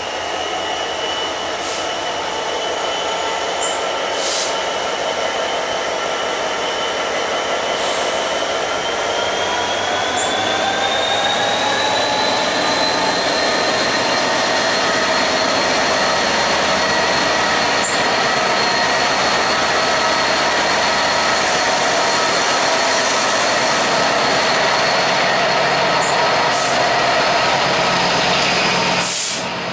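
Train running on the line, giving a steady multi-tone whine that rises in pitch about a third of the way in and then holds level, with a few sharp clicks.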